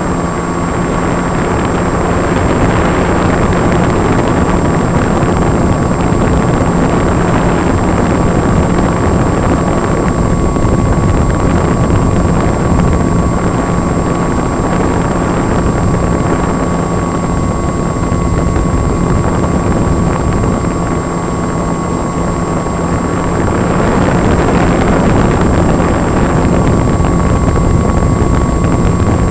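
Electric motor and propeller of an RC model plane running steadily, heard from its onboard camera: a steady whine over rushing wind, swelling a little now and then.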